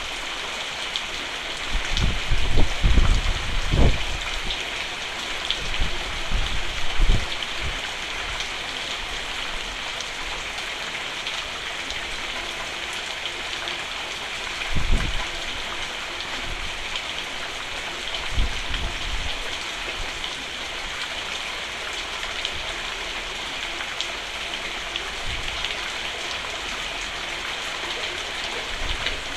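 Steady rain pattering on a roof, an even hiss. It is broken by a few brief low rumbles in the first twenty seconds, the strongest a few seconds in.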